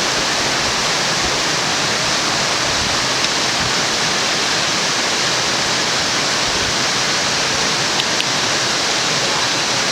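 Mountain waterfall rushing in a steady, dense roar of falling water close to the microphone, with a couple of faint clicks about three and eight seconds in.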